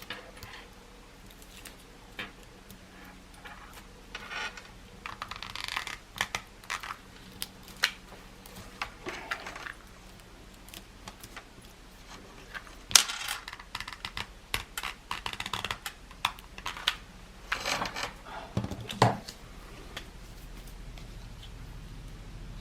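Papercraft materials being handled on a work table: scattered light clicks, taps and brief rustles of card, chipboard and small embellishments, with one sharper click about 13 seconds in.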